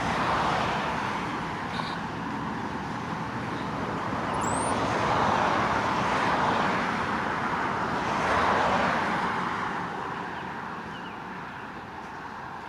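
Road traffic: tyre and road noise of passing cars, swelling several times and fading away near the end.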